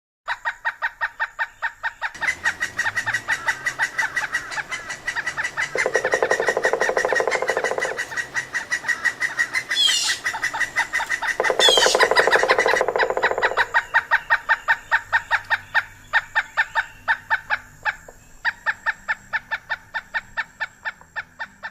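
Birds calling: a long series of rapid repeated notes, about five a second, with a few pauses, and two short falling high whistles partway through.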